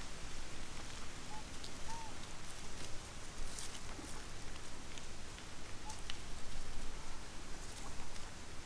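Outdoor background hiss with scattered light clicks and rustles, and two short faint chirps about one and a half and two seconds in.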